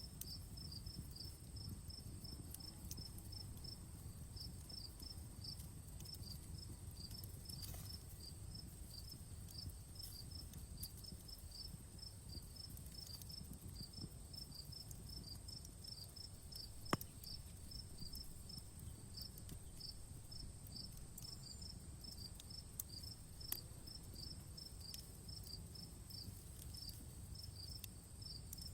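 Crickets chirping in a steady, even rhythm over a steady high hiss and low rumble, with a few sharp pops from a crackling campfire, the loudest about two-thirds of the way in.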